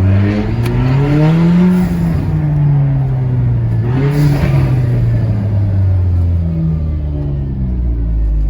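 Hyundai Genesis Coupe 2.0T's turbocharged four-cylinder engine pulling hard, heard from inside the car. The revs climb, then drop at a shift about two seconds in, and rise briefly again near four seconds. Each shift brings a short whoosh from the Paisley blow-off valve venting boost, and after the second one the revs fall away slowly.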